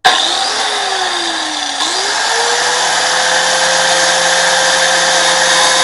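Cutoff wheel starting up and cutting into a metal oil filter housing. The whine sags in pitch over the first two seconds, then rises and holds steady over a gritty hiss.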